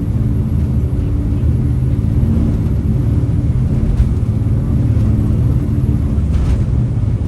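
Jet boat's turbo diesel engines running steadily under power, a loud, constant low rumble.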